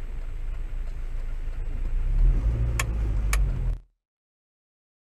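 Low car engine and road rumble heard from inside the car through a dashcam, growing louder about two seconds in as the car moves forward. Two sharp clicks come half a second apart, and the sound cuts off abruptly near the end.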